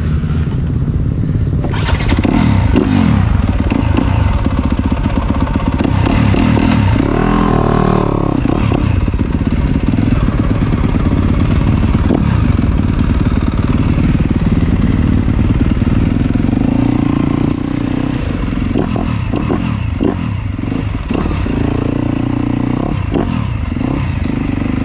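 Yamaha YZ250F four-stroke single-cylinder motocross bike being ridden, its engine revving up and down again and again. There is some clatter over it.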